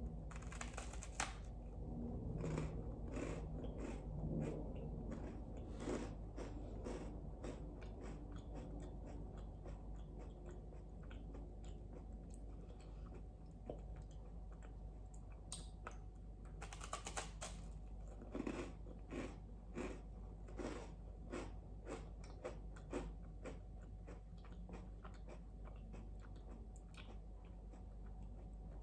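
Toast spread with jam being bitten into and chewed, a series of close crunches that come in clusters, with a quicker run of them in the second half.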